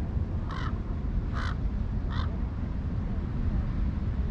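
A crow caws three times in quick succession, harsh and evenly spaced, over the steady low rush of ocean surf.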